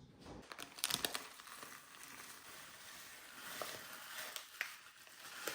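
Continuous crinkling and crumpling of a handled material, with a few sharper crackles along the way.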